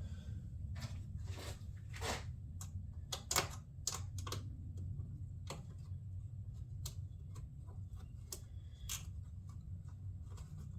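Irregular small metallic clicks and taps of a bolt and washer being fumbled in the fingers against the fender shroud mount while trying to start the thread by hand, over a steady low hum.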